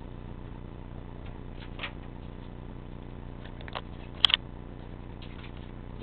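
1971 Lakewood P23 box fan running with a steady motor hum. A few light clicks come through it, and a sharp double click sounds about four seconds in.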